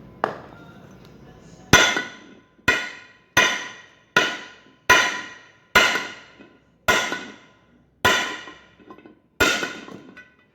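A hammer striking metal: nine hard blows, roughly one a second, each leaving a short metallic ring, after a lighter knock at the start.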